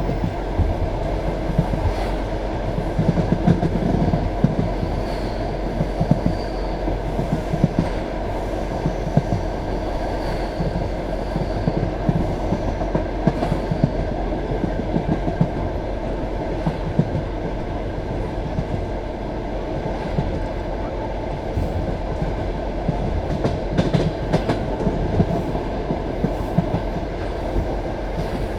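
Passenger train carriage rolling along the track: a steady rumble of wheels on rail, with the clack of wheels over rail joints now and then.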